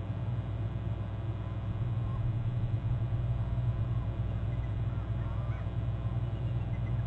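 Bald eagle trilling, faint chirping calls scattered over a few seconds, above a steady low hum that is the loudest sound.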